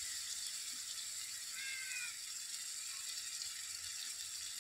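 Marinated prawns frying in hot sunflower oil in an aluminium wok, with a faint steady sizzle. A faint short animal call comes about two seconds in.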